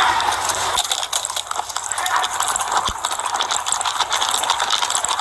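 Body-camera microphone jostled by an officer running on foot: rapid, continuous rattling and rustling of gear and clothing with the thud of footfalls.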